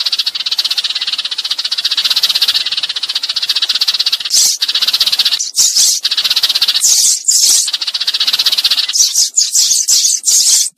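Sparrows chattering in a flock call, a dense rapid run of high chirps that breaks up into louder separate chirps from about halfway on. A decoy call played to draw sparrows in to a trap.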